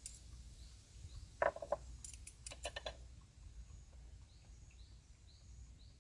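A few sharp clicks and knocks about a second and a half in, then a second quick run of clicks. Faint short high chirps repeat about twice a second near the end, over a steady low rumble.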